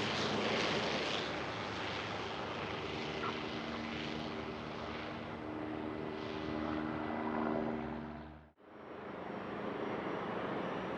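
Aircraft engines running with a steady hum and a few held tones, which break off suddenly about eight and a half seconds in. A fainter, even outdoor background follows.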